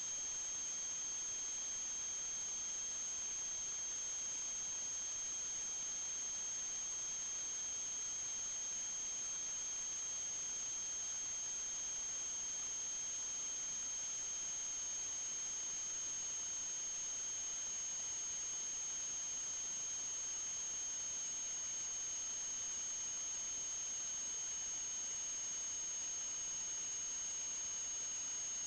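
Steady high-pitched electronic whine over constant hiss: a very high tone with a fainter lower tone beneath it, both holding unchanged throughout.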